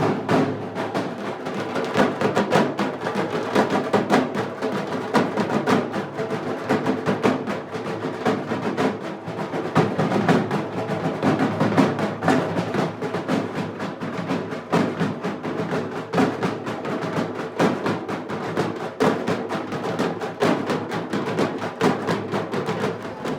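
Music driven by fast, dense drumming and percussion, cutting off abruptly at the end.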